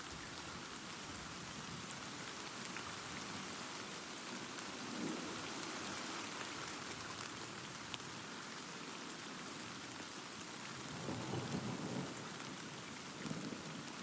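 Steady rain falling, with low thunder rumbles swelling under it: a short one about five seconds in and a longer one around eleven to twelve seconds, with a smaller one just after.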